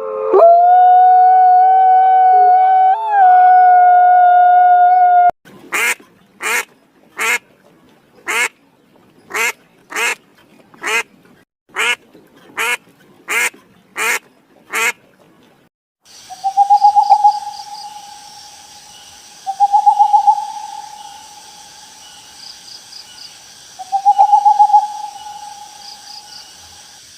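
A run of different animal calls: a long, held howl that breaks off about five seconds in, then about fifteen short, harsh calls at a steady pace, then three longer pulsing calls over a high, steady background.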